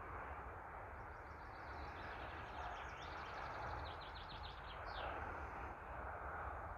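A small bird singing quick runs of high chirping notes and short trills, starting about a second in and stopping around five seconds, over a steady outdoor background rumble.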